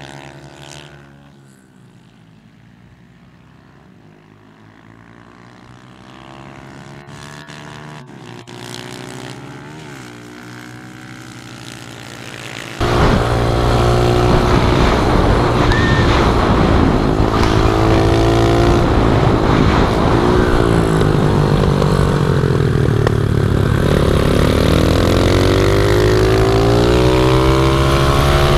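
Pit bike engines running, their pitch rising and falling with the throttle, fairly faint at first. About thirteen seconds in the sound jumps abruptly to a much louder, close-up engine revving up and down.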